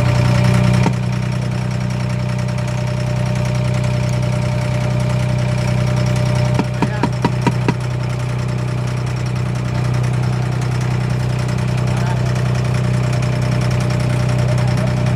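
An abra's diesel engine running steadily with a low drone, as the boat crosses the water. About halfway through, a quick run of five sharp knocks sounds over the engine.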